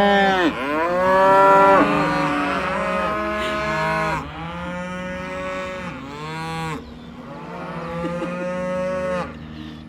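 Cattle mooing: several long, drawn-out calls that overlap one another, one after another throughout.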